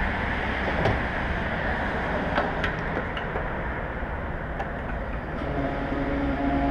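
Suzuki SV650 V-twin engine with an aftermarket Laser exhaust running, under wind noise on the microphone, with a few sharp clicks. A steadier engine tone comes in near the end.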